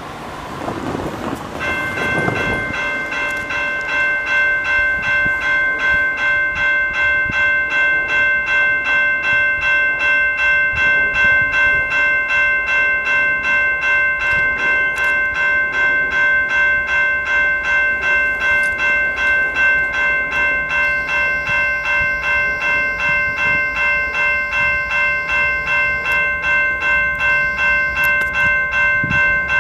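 Railway level-crossing warning bell ringing steadily at about two strikes a second, starting about a second and a half in: the signal that a train is approaching the crossing.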